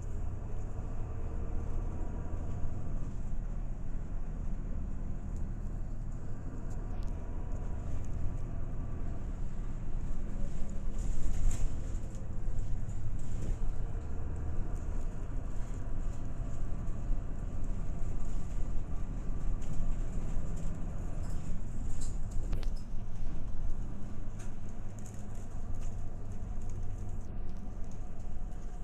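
Inside a moving route bus: a steady engine drone and road rumble, with a few rattles or knocks, the clearest about 11 and 22 seconds in.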